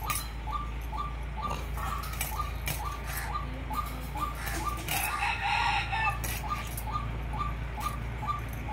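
A bird repeating a short call about two to three times a second, with a louder call about five seconds in. Scattered scrapes and taps come from small fish being scaled and cut against a blade.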